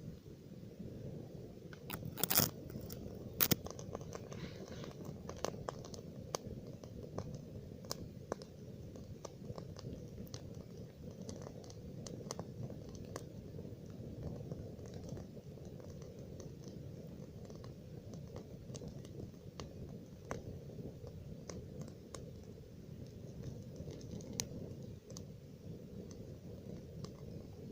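Campfire burning: irregular crackles and pops from the burning wood over a steady low rumble, with a few louder pops about two to three and a half seconds in.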